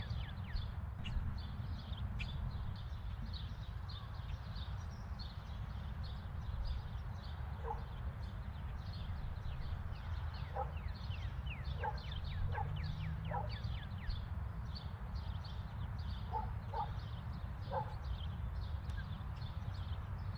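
A dog barking in short, faint yaps, in clusters a few seconds apart, over a steady low rumble, with many quick high chirps throughout.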